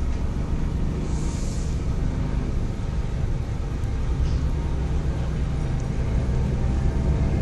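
Steady low mechanical rumble with a faint hum, unchanging throughout.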